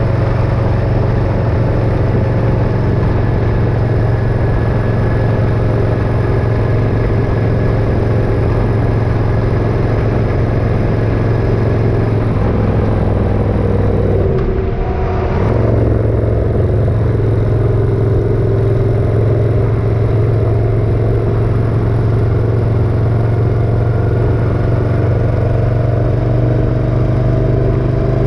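Motorcycle engine running on the road. About halfway through the engine note drops briefly, as in a gear change or easing off, then climbs steadily again under acceleration.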